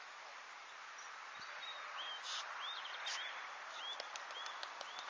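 Open-air background hiss with a small bird calling: a run of short, arched chirps starting about two seconds in, with a few faint clicks near the end.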